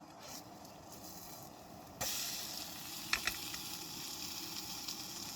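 Pancakes sizzling in a hot frying pan. The sizzle comes in suddenly about two seconds in and then holds steady, with a few short clicks a second later.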